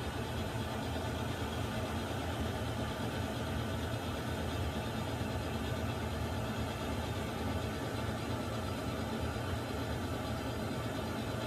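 Water heater running: a steady low rumble with an even hiss above it.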